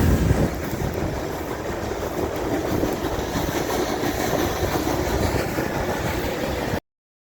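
Heritage train running along the track: a steady rumble of the wheels and cars. It cuts off abruptly into silence near the end.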